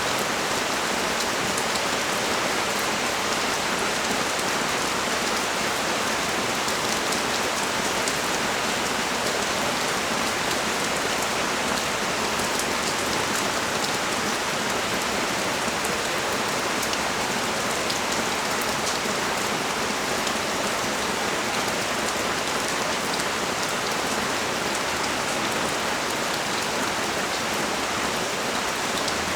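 Steady rain falling on a street: an even hiss with fine ticks of individual drops.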